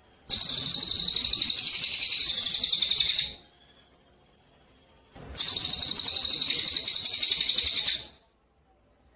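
A songbird singing two long, high-pitched rapid trills, each about three seconds long, separated by a pause of about two seconds.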